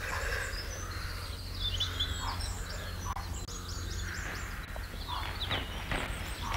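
Birds chirping: clusters of short, high, quickly falling chirps, thickest about two to three seconds in, over a steady low hum.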